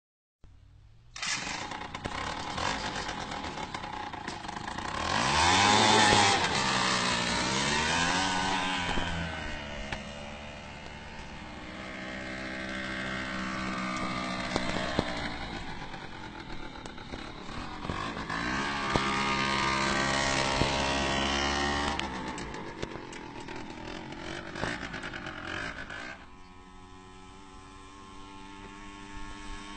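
Small engine of a motorised wheelbarrow running, revving up and falling back several times. It is loudest in two long revs and settles to a lower, steadier run near the end.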